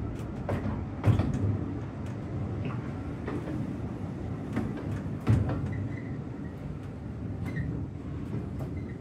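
Open-sided narrow gauge railway carriage rolling slowly along the track: a steady low rumble with irregular clunks and rattles from the wheels and carriage, the loudest knocks about a second in and about five seconds in.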